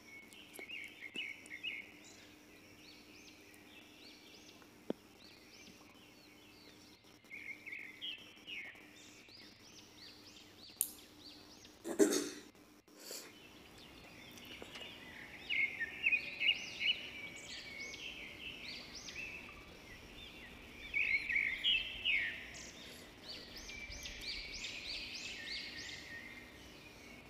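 Small birds chirping in short repeated phrases over a faint steady hum, with one brief louder knock about halfway through.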